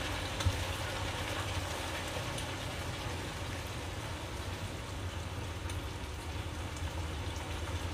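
Rice vermicelli with beef and carrots sizzling steadily in a hot wok, an even frying hiss with a low steady hum underneath.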